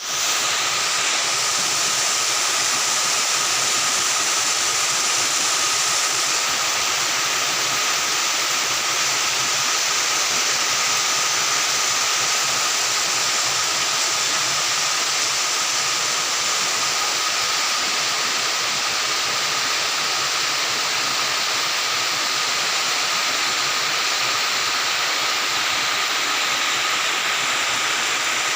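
Steady rain falling in a forest, an even unbroken hiss, with a thin steady tone running through it.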